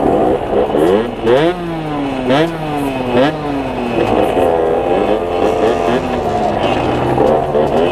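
Derbi DRD two-stroke engine under hard acceleration: the pitch climbs steeply three times in quick succession, dropping sharply at each upshift. It then settles into a steadier, slightly wavering run at cruising revs.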